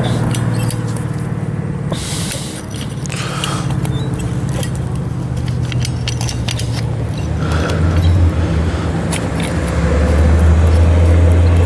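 A steady low engine hum that grows louder near the end, with scattered light clicks and scrapes.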